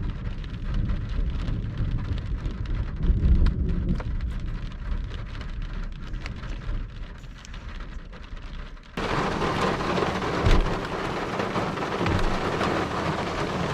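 Rain beginning to fall in a thunderstorm, with scattered drops ticking over a low rumble of thunder. About nine seconds in, it changes abruptly to a loud, even hiss of heavier rain.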